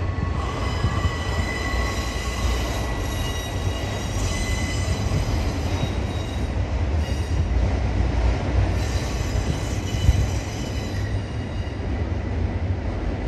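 Freight train of autorack cars rolling past: a steady low rumble of steel wheels on rail, with a high-pitched wheel squeal that comes and goes.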